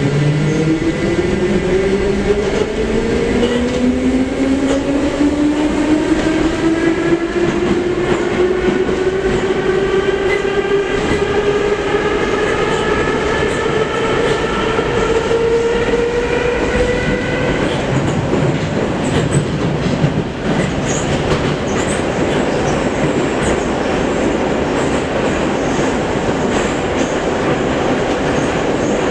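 Metro train pulling away from a station: the traction motors' whine rises steadily in pitch for about seventeen seconds, then stops abruptly. After that only the steady rumble of wheels on rail remains as the train runs on.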